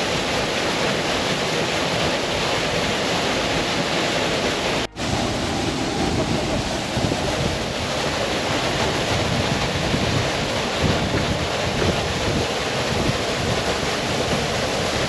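Waterfall rushing steadily, a dense even wash of falling water. The sound cuts out for a split second about five seconds in, then carries on the same.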